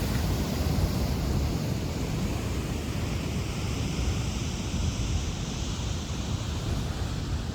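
Heavy ocean surf breaking, a steady rushing hiss, with wind buffeting the microphone.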